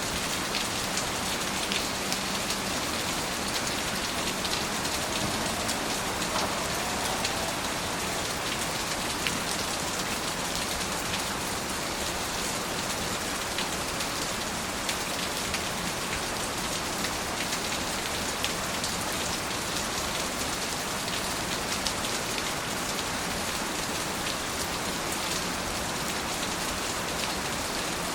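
Steady rain falling on surfaces, an even hiss with many small drop ticks.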